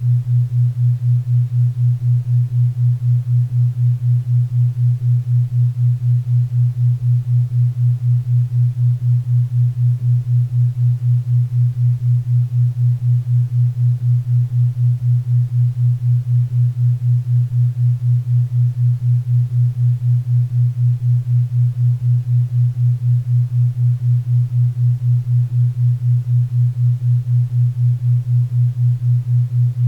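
A low steady tone pulsing evenly about four times a second, a 4 Hz theta-wave beat, over faint pink and brown noise.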